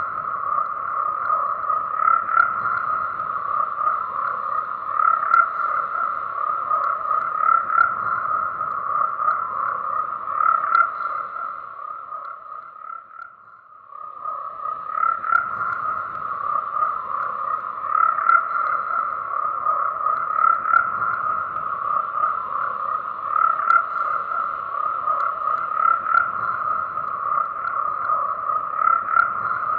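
Dense chorus of many croaking frogs, a steady overlapping rattle of calls with a fairly high, even pitch. The chorus fades down briefly near the middle and then swells back up.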